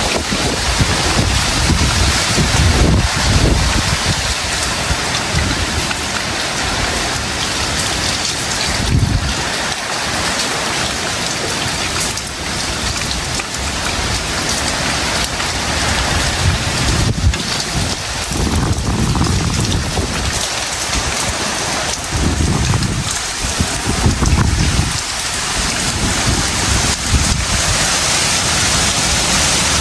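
Heavy tropical rain pouring down steadily. Low rumbles swell and fade every few seconds underneath it.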